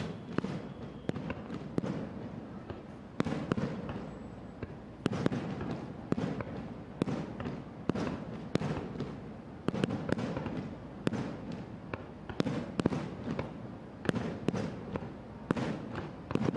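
Aerial firework shells bursting in quick succession: sharp bangs about one or two a second over a continuous rumble and crackle.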